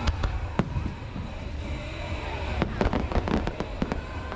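Aerial fireworks bursting: a run of sharp bangs and pops, coming thicker and faster in the second half, over a steady low rumble from the show.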